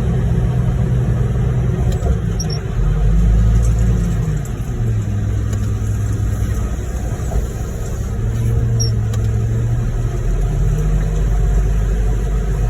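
Heavy diesel engine of a concrete mixer truck running at raised revs while discharging concrete into a pump truck's hopper, the engine note stepping up and down several times.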